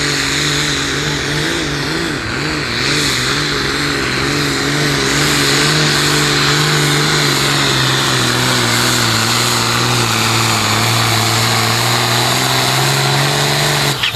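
Pro Stock pulling tractor's diesel engine running flat out under the load of the weight-transfer sled, its pitch wavering at first, then sinking slowly as the load builds. The engine note breaks off suddenly near the end, as the pull ends.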